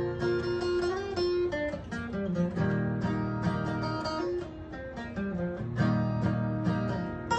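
Acoustic guitar playing an instrumental introduction, with picked single notes and strummed chords.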